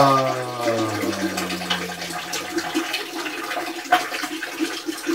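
A stream of urine splashing steadily into toilet water, with a long low groan of relief at the start that falls in pitch and fades out after about three seconds.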